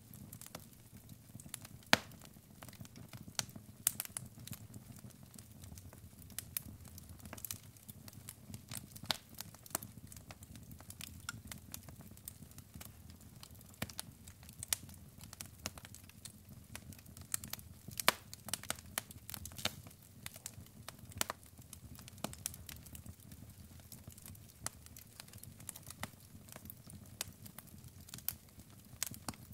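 Wood fire in a fireplace, burning logs crackling and popping at irregular moments over a soft, low rumble of flames. One sharp pop about two seconds in is the loudest.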